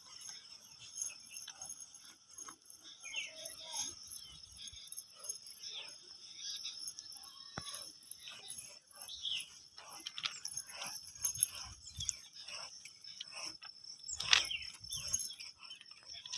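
Birds chirping in short, scattered calls over a steady high-pitched trill, with light clicks and rustles throughout.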